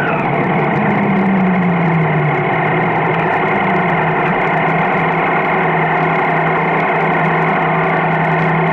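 Triumph Street Triple's three-cylinder engine running as the bike rides at low speed. Its pitch falls about a second or two in as it slows, then holds steady, with road and wind noise around it.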